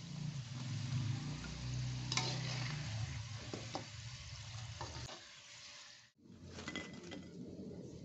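Battered tofu fritters sizzling as they deep-fry in hot oil in a wok, with a metal utensil scraping and tapping against the wok a few times as pieces are lifted out. About six seconds in the sizzle cuts off abruptly, followed by a few light clicks.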